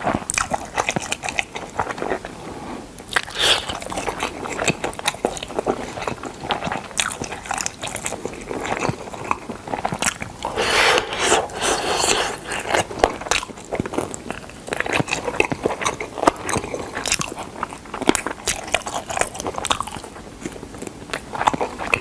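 A person biting into and chewing smoked chicken, with many irregular wet, crunchy clicks and crackles, louder for a couple of seconds near the middle.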